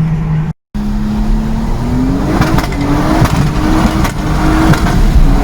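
Turbocharged Lexus IS200's 1G-FE straight-six engine pulling under acceleration: its pitch climbs about two seconds in, then holds higher, with a few short clicks over it. The sound cuts out for a moment just after the start.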